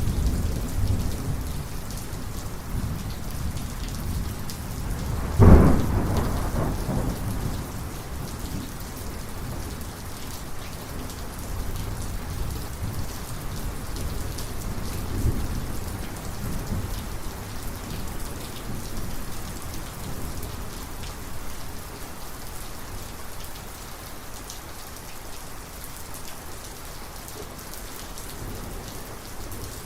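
Heavy steady rain with thunder: rumbling at the start, a sharp, loud thunderclap about five seconds in that rumbles off over the next couple of seconds, a fainter rumble in the middle, then mostly rain.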